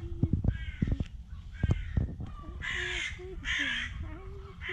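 Harsh cawing bird calls: two loud caws back to back a little under three seconds in and another starting near the end, with fainter, lower wavering calls between them.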